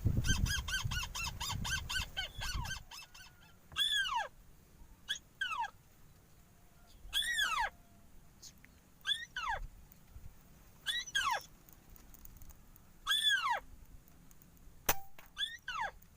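A bird call repeating steadily, one short arching note about every two seconds, after a rapid run of pulsed notes with low rumble in the first couple of seconds. A single sharp crack comes about a second before the end.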